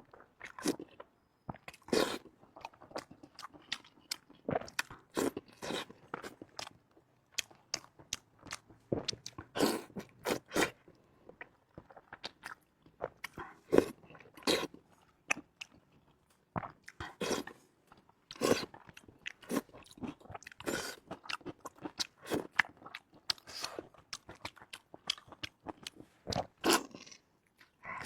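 A person chewing and biting food close to the microphone, as in a mukbang: an irregular run of crunchy bites and wet mouth sounds, several a second, with brief pauses.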